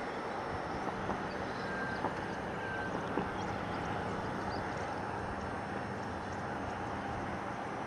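Steady drone of a car travelling along the highway: even road noise with a constant low engine hum.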